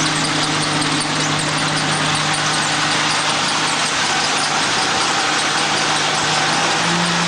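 Gasoline engine of a Boaz mini combine running steadily, with the noise of the machine's moving parts; its pitch rises slightly near the end.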